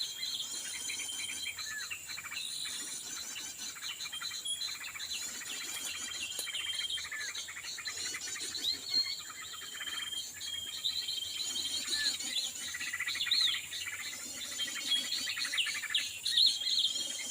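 Small birds chirping and twittering over and over, with a steady high-pitched hiss underneath.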